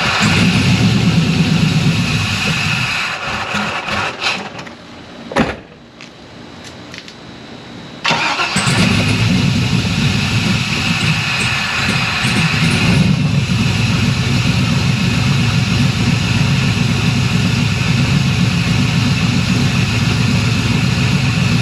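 Pontiac Trans Am engine started up and running for a few seconds, then dying away. About five seconds in there is a sharp click. About eight seconds in the engine fires again suddenly and settles into steady running. This is its first heat cycle on a freshly filled, water-only cooling system.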